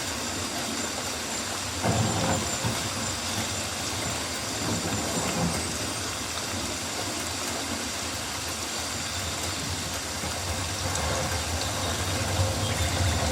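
Steady rain in a rainforest: an even hiss of falling rain, with a brief louder low rumble about two seconds in.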